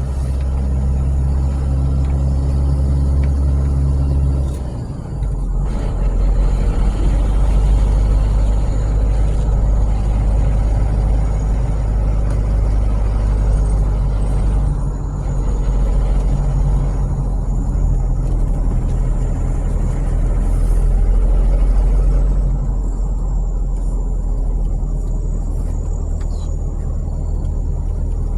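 Car engine and road noise heard from inside the cabin while driving uphill: a steady low drone whose pitch drops about five seconds in.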